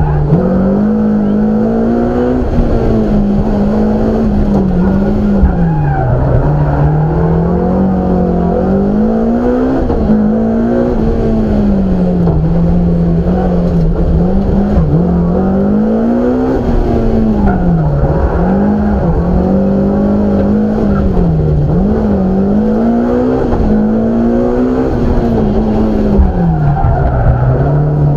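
BMW M3 rally car's engine at racing speed, heard on board: the engine note climbs hard and drops again and again as it shifts up and slows for corners.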